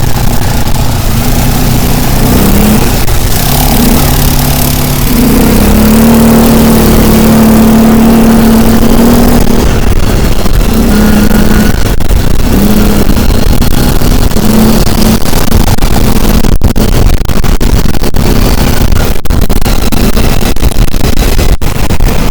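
A motor vehicle's engine running under way, its pitch rising and falling with speed, against heavy wind and road noise.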